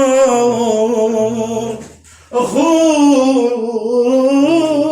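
A man singing an Iraqi mawwal: long drawn-out notes with ornamented, wavering pitch, a short breath about two seconds in, then another long held phrase.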